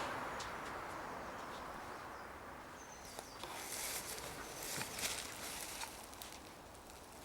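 Faint outdoor ambience with light rustling and scuffing footsteps, busiest between about three and six seconds in.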